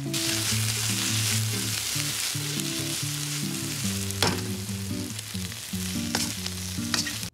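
Cuttlefish, garlic and onions sizzling hard as they stir-fry in a carbon steel wok, with two sharp knocks against the wok, about four and six seconds in.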